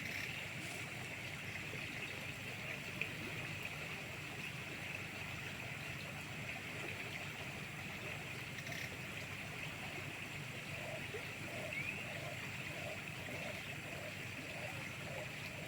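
Steady ambience of a flowing river, an even wash of water noise with a constant high buzz over it. A soft pulsing sound, about two pulses a second, comes in for the last few seconds.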